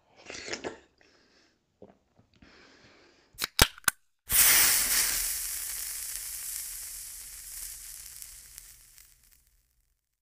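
Close-miked wet chewing and mouth sounds of eating soft dhido with sisnu by hand. Then three sharp hits and a loud burst of hissing noise that fades away over about five seconds, an intro logo sound effect.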